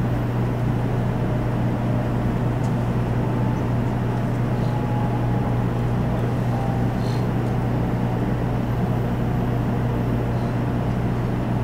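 Cabin running noise inside a JR West Series 500 Shinkansen in motion: a steady low hum under an even rumble and hiss from the rails and air, with a few faint ticks.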